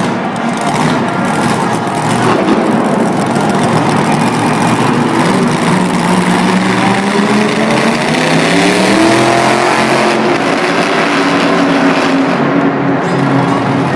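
Monster truck engine running loud and revving, its pitch climbing over several seconds midway and then holding steady.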